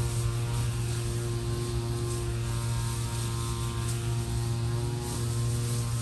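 A steady electrical-sounding hum with a ladder of overtones over a constant hiss, with no birdsong heard.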